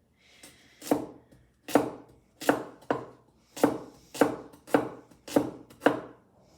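A cleaver chopping vegetables on a cutting board: about ten sharp chops, roughly two a second, starting about a second in.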